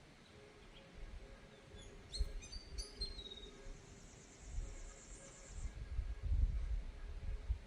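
Outdoor ambience: a bird gives a few quick chirps about two seconds in, followed by a high, even trill for about two seconds. Gusts of wind rumble on the microphone throughout, loudest near the end.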